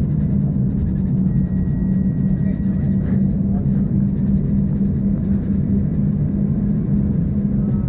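Steady in-cabin drone of an Embraer ERJ-140 in flight: the hum of its turbofan engines mixed with rushing airflow, with a faint click about three seconds in.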